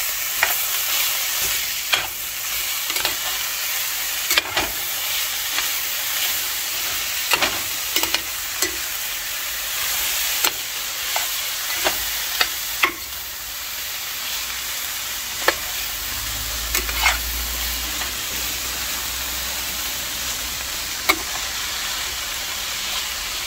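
Sliced bitter melon (carailli) and onions sizzling as they fry in a stainless steel pot, with a spoon scraping and clicking against the pot as the vegetables are turned over.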